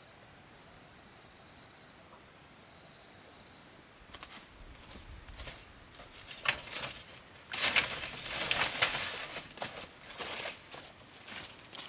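A faint, steady insect trill, then from about four seconds in an irregular run of rustling, scraping and clicking handling noises, loudest in the middle.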